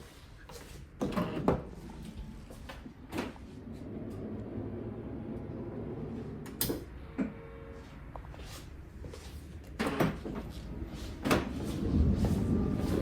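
Kia Carnival power sliding door running on its motor, with a series of sharp clunks and clicks from the door mechanism and a running mechanical drone that grows louder near the end.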